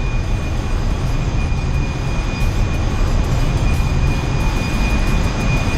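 Steady, loud engine-room machinery noise of a very large crude carrier underway: a dense low rumble with a constant high-pitched whine over it.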